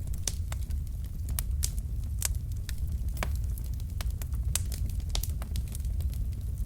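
Wood fire in a fireplace, burning logs crackling and popping in quick irregular snaps over a steady low rumble of the flames.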